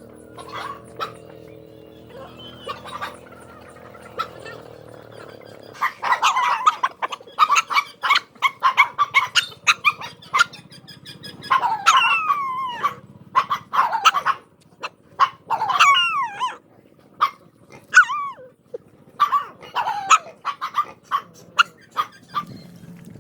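Dogs barking and yelping in quick runs, some calls sliding in pitch, starting about six seconds in.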